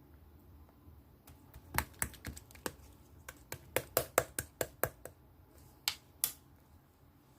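Purple marbled slime being pressed and squeezed by hand, giving a quick irregular run of sharp clicking pops. The pops are densest in the middle, with two more near the end.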